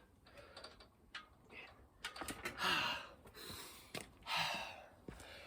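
A man breathing hard after an exhausting burpee and chin-up workout, with two loud gasping breaths in the second half, and a few light clicks earlier on.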